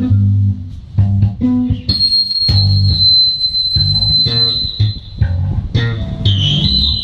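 Instrumental music: a bass guitar plays repeated low notes under plucked guitar notes, with no singing. A steady high tone sounds from about two seconds in for about three seconds.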